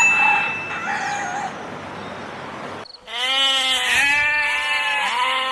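Goat bleating: three drawn-out, wavering bleats one after another, starting about three seconds in after a stretch of noisy background.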